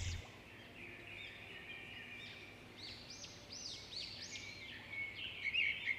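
Small birds chirping in the background: scattered high chirps, then a quick run of arching chirps from about three to five seconds in, over a faint steady hum.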